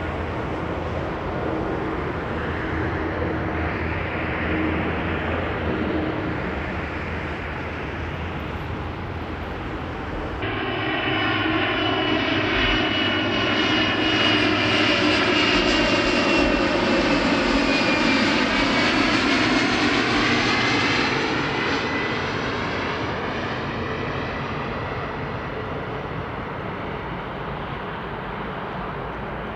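Passenger jet on its landing approach passing low overhead: engine noise with a high whine that swells, peaks and then fades away, with a sweeping, phasing hiss as the aircraft goes over. The sound changes abruptly about ten seconds in.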